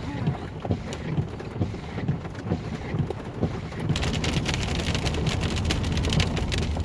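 A car being driven through rain: steady road rumble with scattered raindrops tapping on the body. About four seconds in, a louder hiss of rain and wind comes in, with denser tapping.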